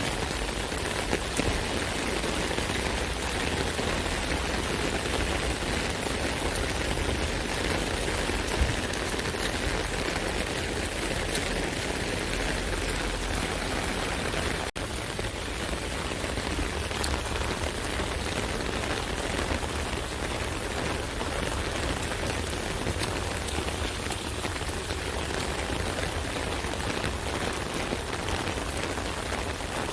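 Rain falling steadily on an umbrella: a dense, even patter of drops on the canopy, with a few sharper individual drop hits and a momentary dropout about halfway through.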